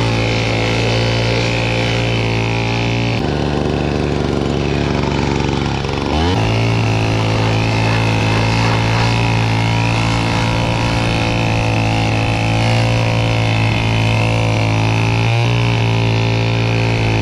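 Leaf blower running steadily, its pitch dropping and shifting for a few seconds about three seconds in before it settles back to a steady run.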